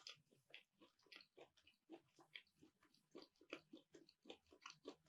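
Faint mouth sounds of chewing baked keto piroshki: irregular soft clicks, several a second.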